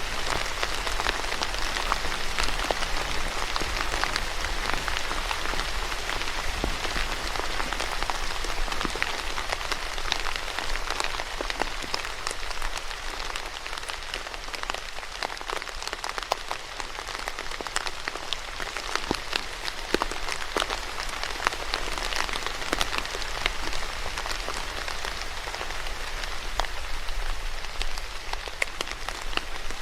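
Steady rain falling on a surface, with many individual drops pattering in close rapid succession.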